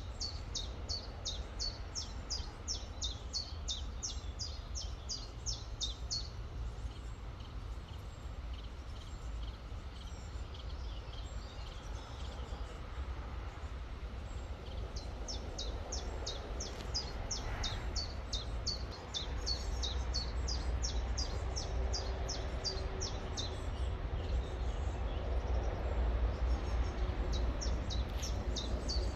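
A bird singing long runs of quick, high, sharp notes, about four a second, that stop and start again, over a steady low rumble.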